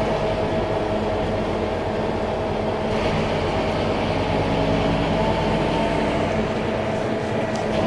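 Scania K310IA bus engine running steadily under way, its drone joined by a steady high whine from the drivetrain.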